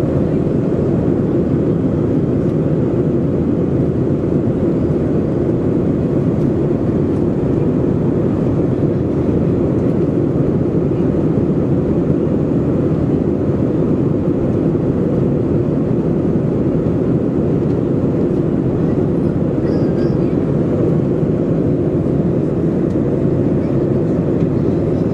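Steady drone of a Boeing 737-400 in climb, heard inside the economy cabin: the CFM56-3 jet engines and rushing air make a loud, even, low rumble that does not change.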